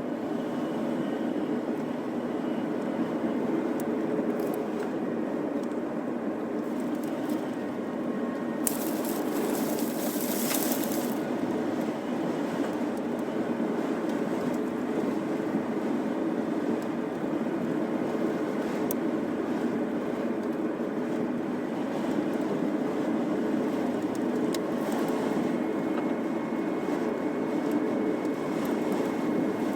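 Steady rushing wind of a sandstorm, with a brief sharper hiss about nine to eleven seconds in.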